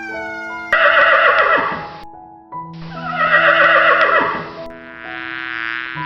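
Horse whinnying twice, each call about a second and a half long and trailing off in pitch, over background music with held notes.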